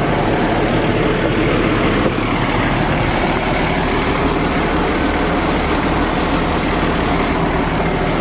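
Heavy truck engine running steadily at idle, a constant low rumble under street noise.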